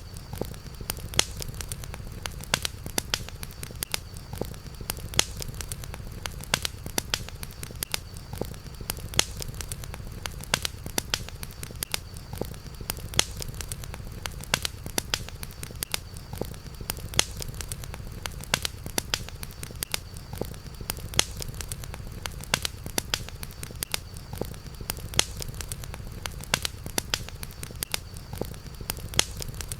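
Campfire burning, crackling with frequent sharp irregular pops over a steady low rumble, with a faint steady high-pitched tone in the background.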